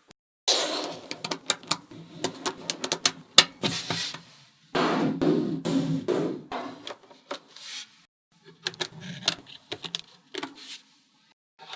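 Small magnetic balls clicking together and rubbing as they are pushed and snapped into place by hand: quick irregular clicks over a scraping rustle, broken by a few short silences.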